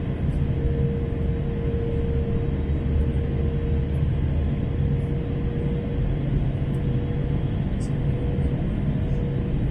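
Steady cabin noise inside an Airbus A321neo (A321-271NX): its Pratt & Whitney geared turbofan engines and airflow running evenly, with a constant low hum and a steady higher drone.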